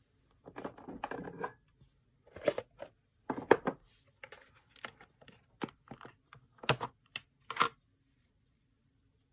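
Paper and craft materials handled on a work surface: a second of rustling, then a string of irregular sharp taps and clicks.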